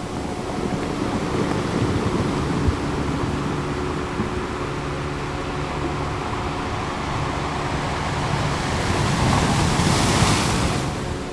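Ocean surf washing continuously, with one wave swelling up and falling away near the end. A faint, low, steady drone of held tones sits beneath the waves.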